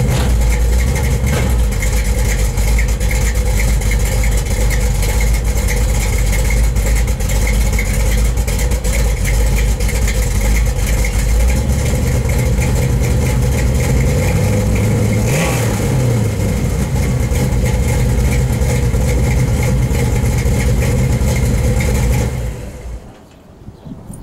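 Freshly rebuilt 355 small-block V8 with a Lunati cam, Hooker headers and Flowmaster exhaust, idling in gear with a steady deep rumble, still in its break-in period. It rises and falls briefly in pitch about two-thirds through, then stops near the end.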